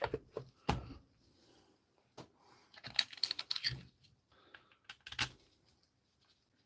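Sharp clicks and light metallic clinks of small metal parts being handled and tapped while a cordless impact wrench is worked on. A quick run of rattling taps comes about three seconds in, and another clink comes about five seconds in.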